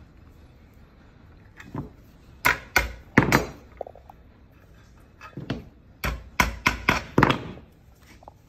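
Sharp strikes in two quick runs: about four a little past two seconds in, then about six more starting about six seconds in.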